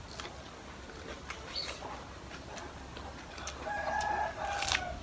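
A rooster crowing once, a held two-part call of about a second near the end, over faint scattered clicks.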